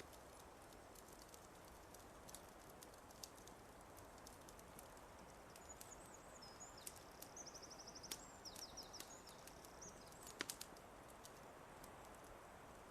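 Fireplace fire crackling softly, with scattered sharp pops over a faint steady hiss; the loudest pop comes a little after ten seconds. Midway, a small songbird sings a short, high, rapid trilled phrase lasting about three seconds.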